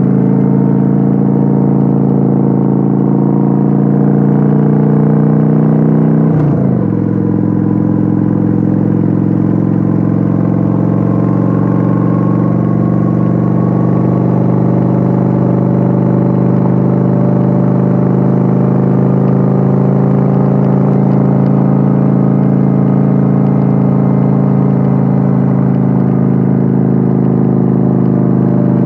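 Kawasaki Vulcan 900's V-twin engine running steadily under way, heard from on board the motorcycle. About six and a half seconds in the revs drop quickly, then the engine settles and runs steady at the lower speed.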